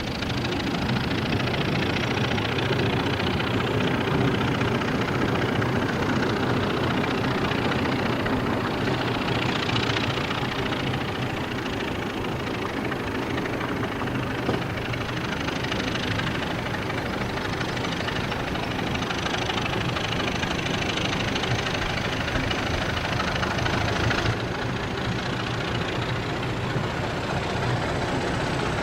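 Diesel locomotive engine running steadily at idle, with a faint high whine coming in about halfway.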